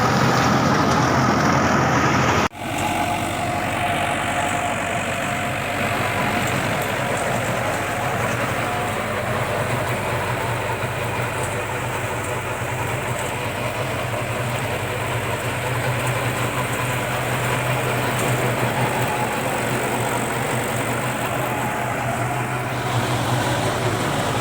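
Tractor engine running steadily, after a sudden break in the sound about two and a half seconds in.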